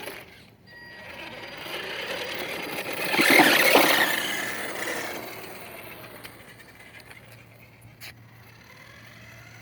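A toy truck's motor and tyres driving by: a rough, noisy rush that builds to a peak about three seconds in and then fades away.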